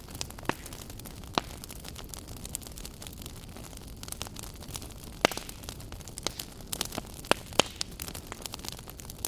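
Wood fire burning in a fireplace, crackling with irregular sharp pops over a steady low rush of flame; a cluster of louder pops comes a little past halfway.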